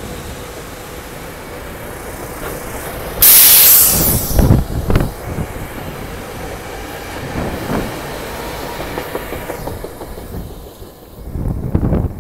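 SEPTA Regional Rail train running past along the rails, with the clatter of its wheels, a few heavy clunks, and a loud burst of hiss about three seconds in. The train noise fades near the end as it pulls away.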